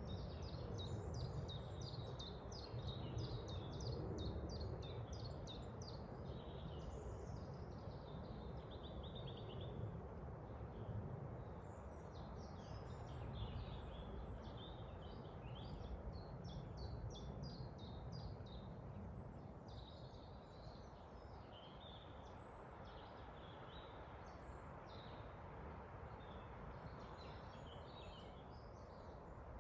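Several small songbirds singing and chirping in a forest, with rapid runs of quick, high repeated notes, over a steady low rush of wind.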